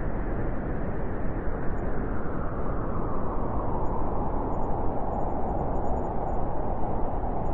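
Howling wind: a steady, dense rush of noise whose hollow middle tone grows stronger in the second half.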